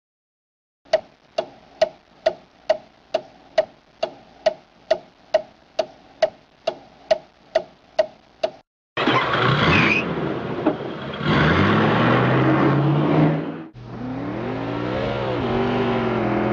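A run of evenly spaced sharp ticks, about two a second, each with a short mid-pitched tone. About nine seconds in they give way to racing car engines revving, rising and falling in pitch.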